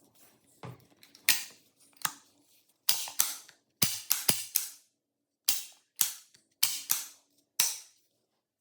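A series of about thirteen sharp metallic clicks and snaps, irregularly spaced and some in quick pairs, each with a short ringing tail. They come from the restored single-barrel 12-bore shotgun's action and hammer being worked.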